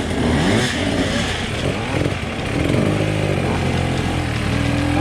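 Enduro dirt bike engine revving up and down under load, its pitch rising and falling repeatedly, then holding a steadier, higher note for the last two seconds.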